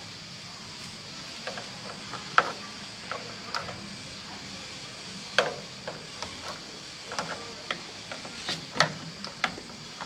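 Irregular sharp clicks and knocks of tools and hard parts being handled, over a steady hiss, with the loudest knocks about two, five and nine seconds in.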